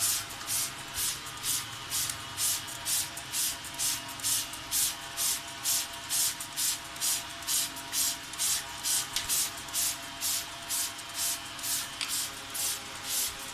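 Trigger spray head on a plastic soda bottle pumped over and over, squirting water in short hissing bursts at about three a second, showering a parrot.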